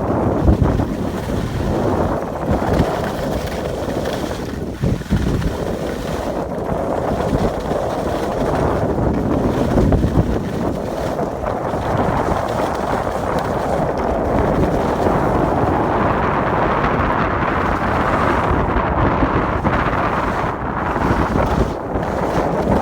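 Wind rushing over the microphone while skiing downhill, a loud steady buffeting that swells and eases a little.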